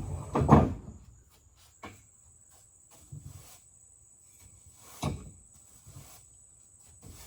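A few scattered knocks and clicks of things being handled, like a cupboard or door: a loud thump about half a second in, a sharp click near two seconds, and another thump about five seconds in. A faint, steady, high whine runs underneath.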